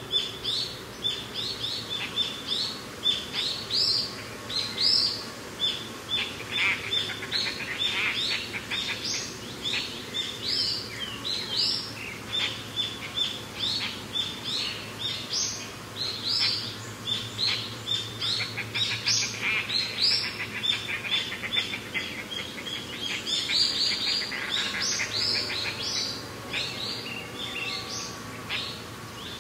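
Birds chirping: many short, high calls overlapping throughout, with quick trills now and then.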